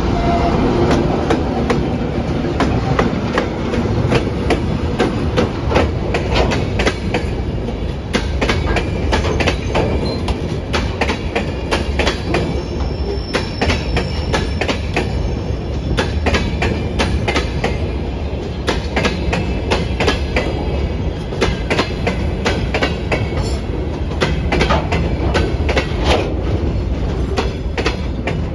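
Freight train of open gondola wagons rolling past close by, steel wheels clicking rhythmically over rail joints under a steady rumble, with a brief faint wheel squeal a little before halfway. The engine of the ChME3T diesel shunting locomotive is heard as it passes at the start.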